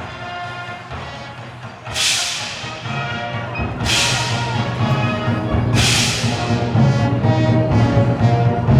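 Concert wind band playing, with crash cymbals struck three times about two seconds apart and the band growing louder from about the middle.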